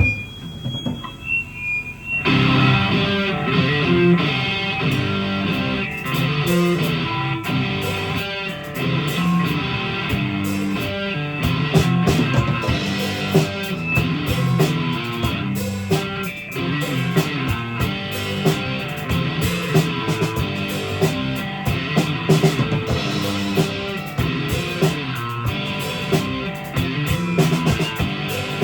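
Live rock band playing: electric guitar and drum kit come in together about two seconds in and carry on with a steady beat.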